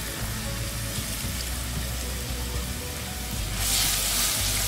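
Ginger-garlic paste sizzling in hot cooking oil in a wok. The sizzle gets louder and brighter about three and a half seconds in as the paste is stirred and spread with a spatula.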